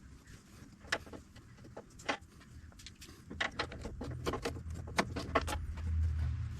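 Irregular sharp clicks and knocks of hand tools on the backhoe's metal parts, bunched together in the middle, over a low rumble that grows louder toward the end.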